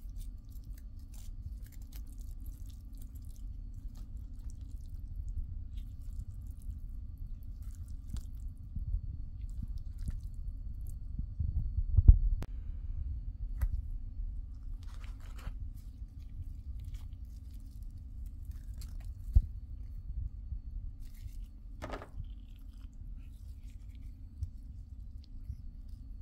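A person chewing and eating noodles close to the microphone, with scattered small clicks and knocks from a plastic fork in a foam takeout container, the loudest about twelve seconds in, over a steady low hum.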